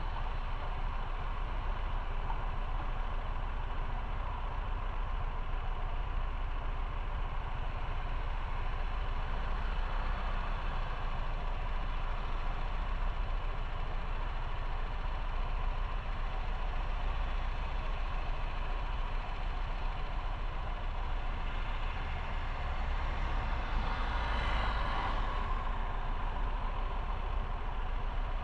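Motorcycle on the move: steady engine and wind rumble, with a brief louder swell near the end.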